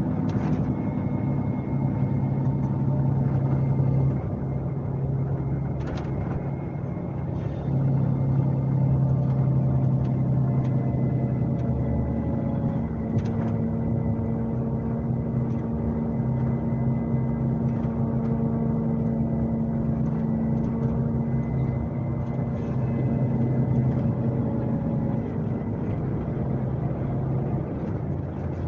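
Scania K370C coach's rear-mounted diesel engine running on the road, heard from inside the bus: a steady hum whose pitch and strength shift a few times, with a few brief knocks or rattles.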